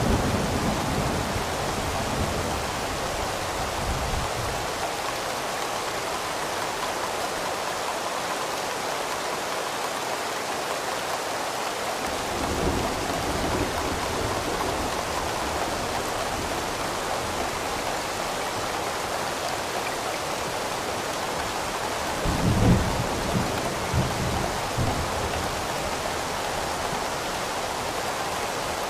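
Rain falling steadily, with low rolls of thunder: one at the start, another about halfway, and the loudest about three quarters of the way through.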